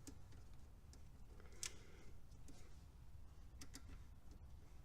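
Near silence with a few faint, sharp clicks: one about a second and a half in and a quick pair a couple of seconds later. They come from small parts being handled while the ignition module and its wires are fitted into the distributor.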